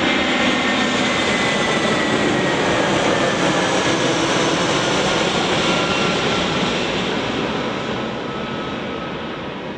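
Airbus A320 airliner's jet engines passing on its landing approach: a loud steady roar with a faint, slowly falling whine. The sound begins to fade away about seven seconds in.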